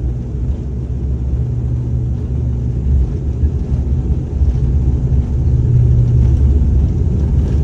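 Aircraft engines and rumble heard inside an airliner cabin during the lead-up to takeoff: a loud, steady low rumble with a low hum, growing louder over the second half.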